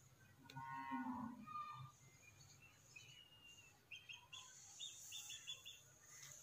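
Faint outdoor birdsong. A bird sings a quick run of short high notes, about four a second, in the second half. About a second in there is a distant, lower pitched call.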